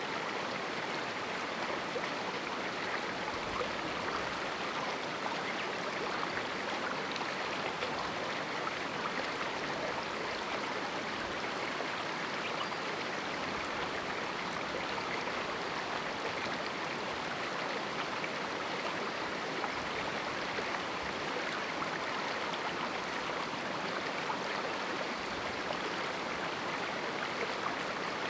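A small mountain river flowing and rushing over rocks, a steady, unbroken sound of running water.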